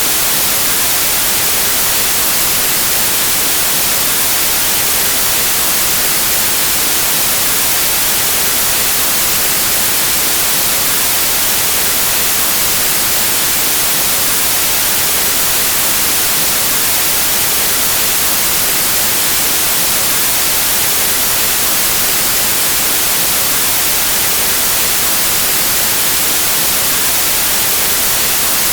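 Steady, loud white noise: an even, unchanging hiss across the whole range of pitch, brightest in the highs.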